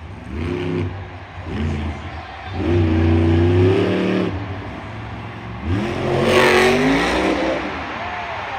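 Monster truck engine revving: a few short throttle blips, then two longer revs that climb and hold before dropping, the second with a loud rush of noise at its peak.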